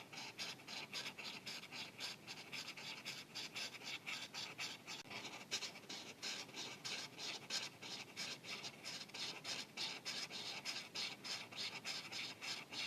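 Marker tip scratching across paper in quick back-and-forth coloring strokes, about four a second.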